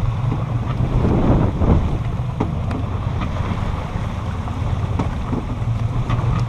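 Boat engines running steadily under way, a low hum under rushing wind on the microphone and water slapping the hull in rough chop, with a few sharp knocks.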